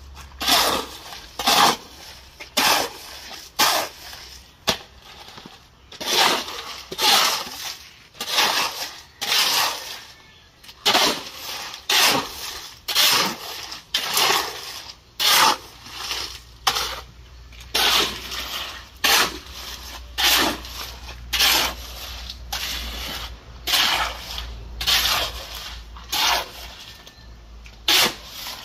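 Wet concrete being mixed by hand, with a scraping, splashy stroke about once a second.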